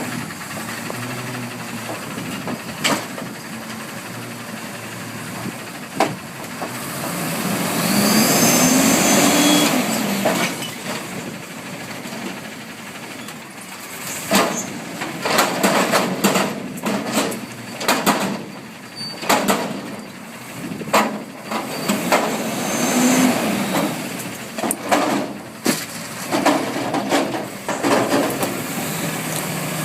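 Front-loader garbage truck working: its engine revs up and back down about a quarter of the way in, then comes a long run of bangs and knocks, irregular and some loud.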